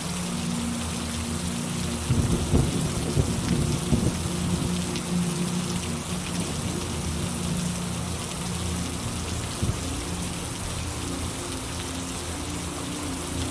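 Steady rain falling, with a roll of thunder rumbling low about two seconds in and lasting a couple of seconds.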